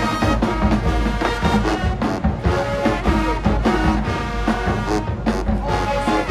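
High school marching band playing a field show number: brass holding sustained chords, with a few drum hits.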